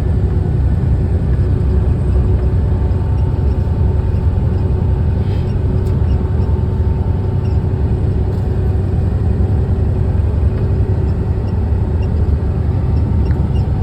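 Steady engine and road noise inside a truck cab while driving, a constant low rumble with a faint steady hum.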